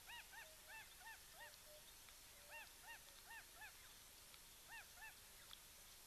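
A bird calling faintly in a run of short calls, each rising and falling in pitch. About five come at the start, about five more around the middle, and two near the end.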